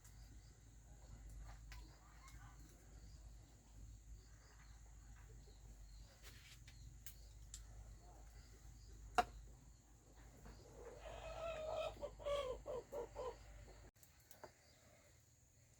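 A chicken clucking: a drawn-out call followed by a quick run of short clucks, about four a second, a little after the middle. A single sharp click comes a couple of seconds earlier.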